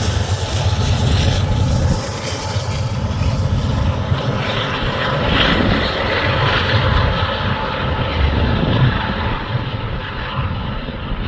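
Rear distributed-power diesel locomotive, a GE Evolution Series unit, running past at the end of a freight train, with its engine rumbling over steel wheels on rail. The sound gets duller toward the end as it moves away.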